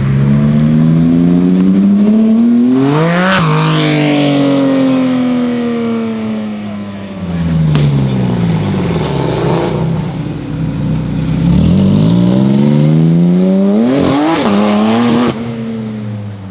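Porsche 911 GT3 RS flat-six with a custom exhaust revving hard: the engine pitch climbs to a peak about three seconds in, with a sharp crack, then falls away. It climbs and falls twice more, peaking again near the end before the sound drops.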